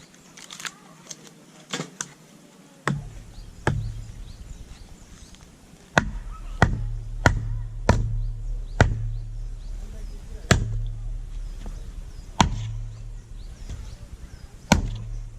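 Firewood being split with repeated sharp blows, about a dozen strikes at uneven intervals, the first few lighter and the later ones heavier.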